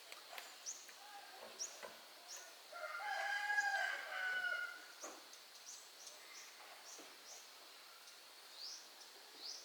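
A rooster crows once, a single long call of about two seconds near the middle, with short high chirps in the background.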